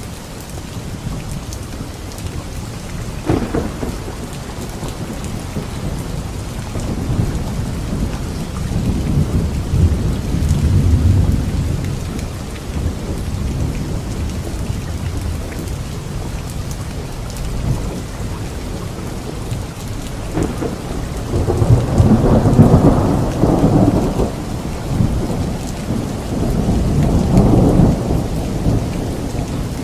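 Thunderstorm: steady rain with rolling thunder. There is a short crack a few seconds in, a low rumble builds around a third of the way through, and the loudest long peals come in the last third.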